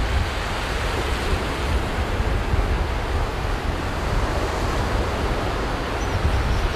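Sea waves breaking and washing on a beach in a steady continuous surf, with wind buffeting the microphone in a low rumble.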